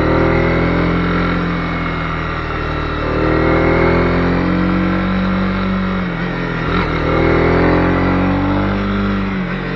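Honda CB250R's single-cylinder engine under way, its pitch rising and falling several times as the throttle is opened and closed and the gears change.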